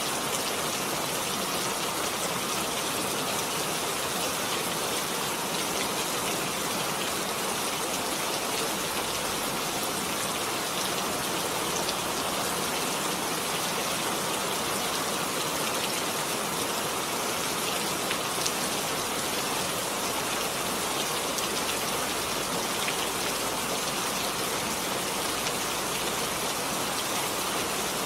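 Heavy rain falling steadily: a dense, even hiss of drops with faint individual patters, unchanging throughout.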